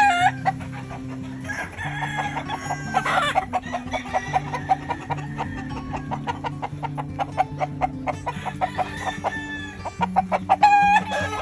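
Gamefowl clucking repeatedly, with a rooster crowing right at the start and again near the end, over background music with held low notes.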